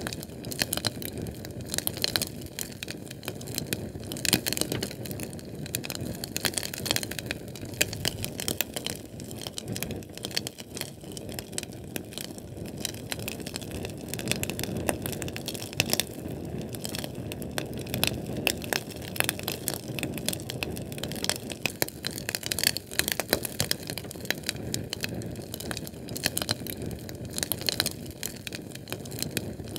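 Fire burning, with dense irregular crackles and snaps over a steady low rumble of flame.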